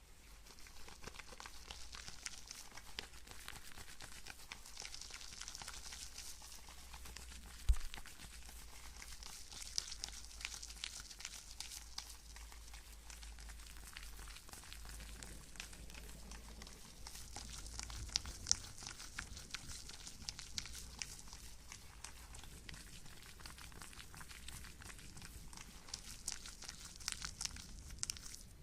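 Close-miked ASMR crackling and scratching sounds: a dense run of fine crinkles and small clicks, with a single low thump about eight seconds in.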